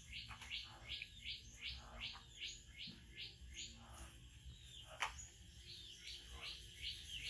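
Faint, rapid bird chirps repeating about three times a second, pausing briefly in the middle, with one sharp click about five seconds in.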